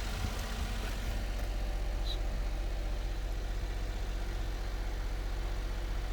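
Daihatsu Jumbo Cab kei mini truck's small 660 cc three-cylinder engine idling steadily with a low hum.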